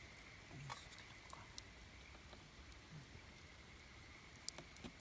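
Wood campfire crackling faintly, with a few sharp isolated pops, the loudest near the end.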